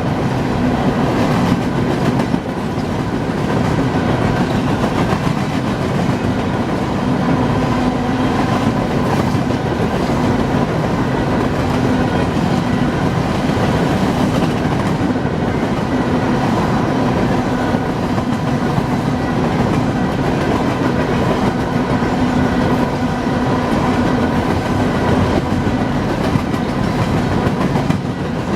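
Empty coal hopper cars of a freight train rolling past at track speed: steady wheel clatter and rumble on the rails.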